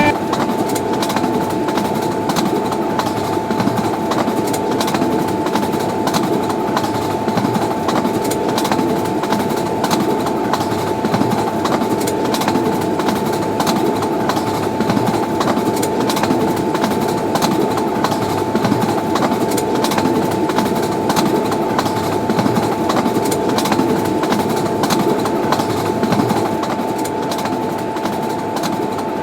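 Train running along the track: a steady rumble of wheels on rails, with many sharp clicks and a constant tone held through it.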